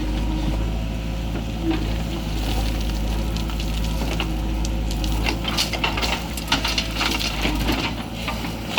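Heavy diesel machinery engine running steadily, with a dense crackle of short clicks and knocks over it in the second half.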